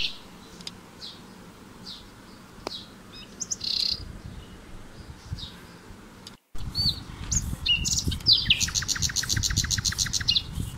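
Birds chirping and calling, with short separate chirps at first and a fast trill of rapidly repeated notes near the end.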